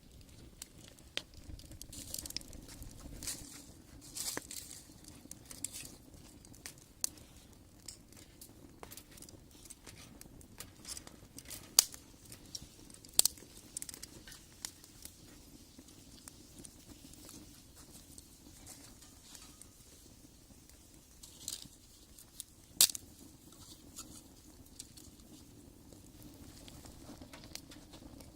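Wood fire crackling in a brick rocket stove, with irregular small crackles and a few sharp pops.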